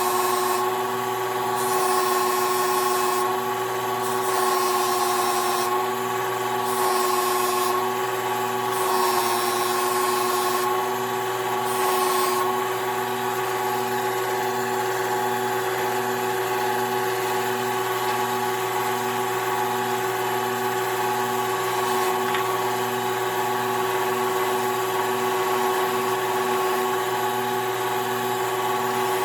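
Electric power tool motor running steadily with a constant hum. A workpiece is repeatedly pressed against it for the first twelve seconds, adding a harsh hiss that swells about every two seconds; after that it runs evenly.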